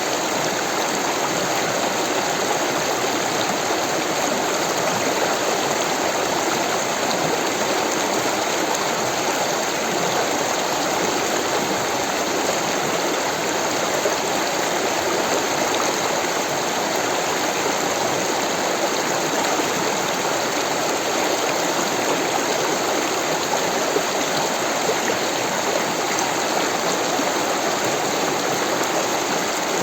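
Rushing water of a stream, a steady, even rush with no breaks.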